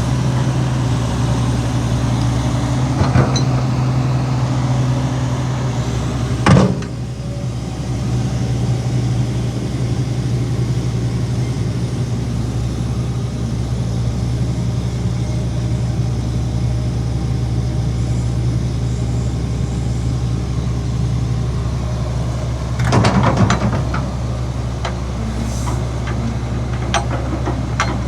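Heavy diesel earthmoving engine running at a steady low hum. It is broken by a few metallic clanks: a light one about three seconds in, a sharper, louder one at about six and a half seconds, and a short cluster of knocks and rattles around twenty-three seconds.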